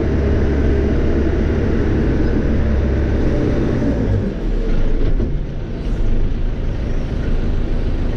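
Diesel engine of a Cat 430E backhoe loader running, heard from inside the cab. Its deep, steady hum drops off about four seconds in, then the engine runs on at a lighter note.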